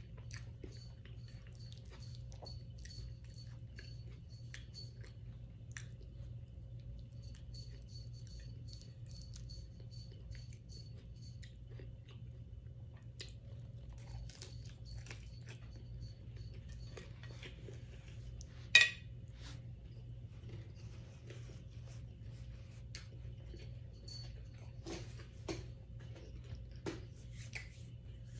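A person chewing and biting food close to the microphone: wet mouth clicks and crunching in small irregular bursts, over a steady low hum. One much louder sharp click comes about two-thirds of the way through.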